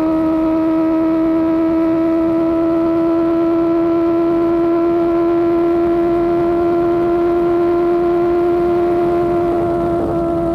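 Sportbike engine and Austin Racing GP1R exhaust holding a steady high-revving drone while riding, its pitch creeping up slightly and easing off a little near the end, over low wind and road rumble.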